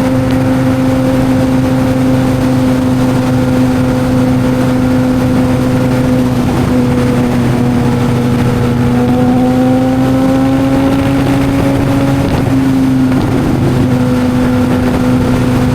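Honda CBR600RR inline-four running at a steady highway cruise, with heavy wind rush on the microphone. The engine note sags slightly about halfway through, then climbs back and holds.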